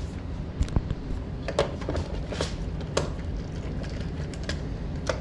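Scattered small clicks and knocks as the electrode wire connectors are pulled off a steam humidifier's canister, over a low steady hum.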